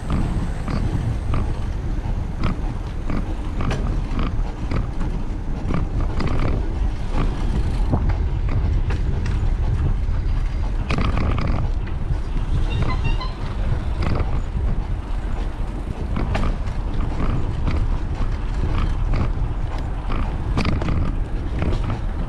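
Bicycle riding over a rough path: a steady low rumble of wind and tyres, with frequent sharp rattles and knocks from the bike.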